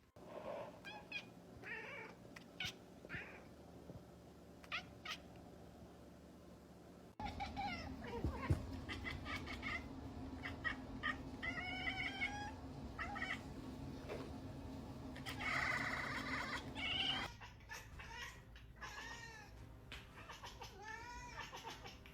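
Domestic cats meowing: a long string of separate calls that slide up and down in pitch. The background hum changes abruptly about seven seconds in and again near seventeen seconds.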